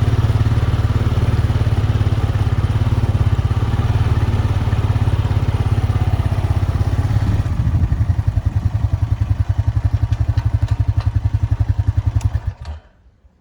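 Honda four-wheeler's single-cylinder engine running, settling to a slower, lumpy idle about halfway through, then switched off near the end so that it stops abruptly.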